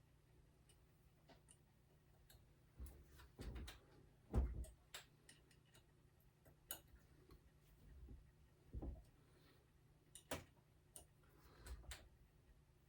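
Faint, irregular clicks and taps of small parts and tools being handled during steering gearbox reassembly, with a few duller knocks, the loudest about four seconds in.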